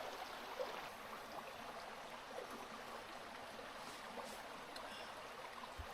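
River water flowing steadily, a faint even rush, with a short low bump near the end.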